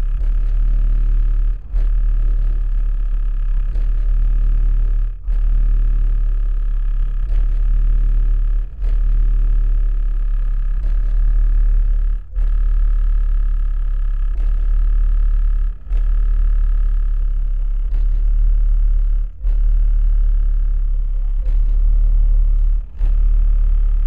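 Car subwoofers playing music with a heavy, deep bass line, loud, with a short break in the bass about every three and a half seconds.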